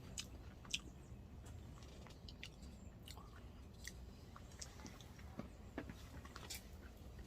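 Faint chewing of potato pancake close to the microphone, with scattered small clicks.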